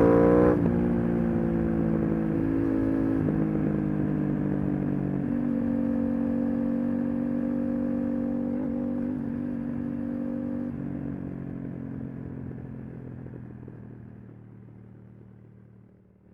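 Aprilia RS 660's parallel-twin engine through an SC-Project SC1-R exhaust, revving up and then dropping sharply as the throttle closes about half a second in. It then runs at steady revs with a few small pitch changes before fading out over the last few seconds.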